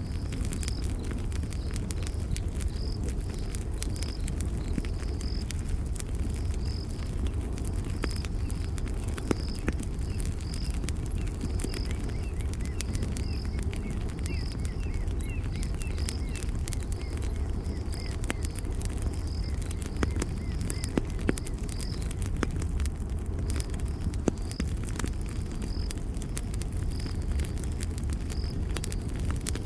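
Campfire burning with a steady low roar and scattered sharp crackles and pops. Over it runs a regular high chirp, about one and a half a second, typical of a cricket at night.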